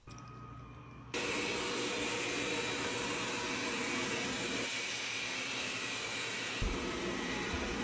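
Wyze robot vacuum's suction motor running as a steady hiss with a faint whine. It is quiet for about a second, then suddenly louder and even, and it cuts off abruptly at the end.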